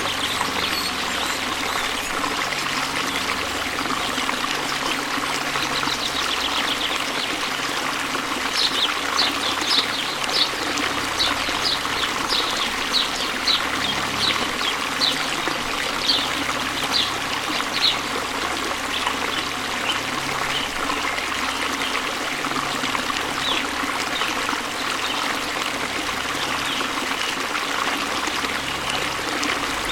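Waterfall: a steady rush of falling water. From about 9 to 18 seconds in, a run of short high chirps, about two a second, sounds over it.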